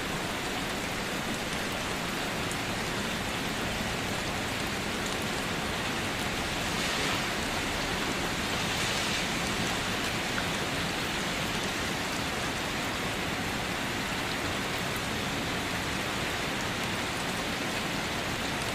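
Steady rain falling on a car, a dense, even hiss of drops that swells slightly about halfway through.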